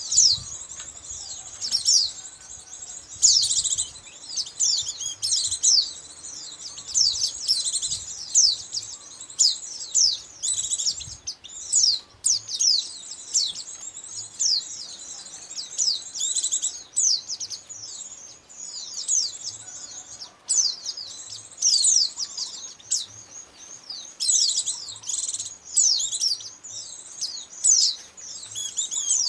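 White-eye (pleci) lure call: a dense, unbroken stream of short, high chirps and twitters, many calls overlapping, played to attract white-eyes.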